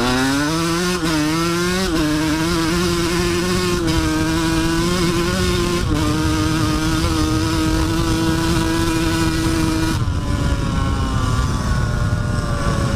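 Dirt bike engine under hard acceleration: it revs up over the first couple of seconds, holds steady high revs with a few small shifts in pitch, then backs off about ten seconds in.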